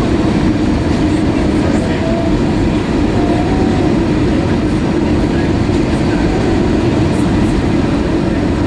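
Airbus A320 cabin noise: a loud, steady rumble of engines and airflow, deepest in the low range, with no change in level.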